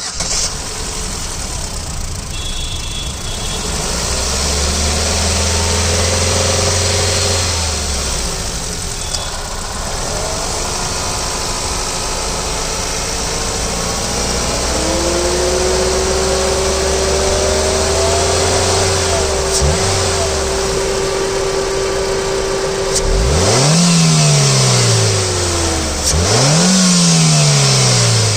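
2010 Ford Fiesta's engine running steadily, with a steady whine that joins about halfway through. Near the end the engine is revved up and let fall back twice.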